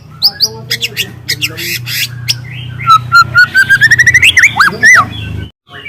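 Young white-rumped shama (murai batu) singing loud and varied: sharp whistled chips, then about three seconds in a fast trill of notes climbing in pitch, in the canary-like style, ending in two sweeping whistles. The song drops out abruptly for a moment near the end, over a steady low hum.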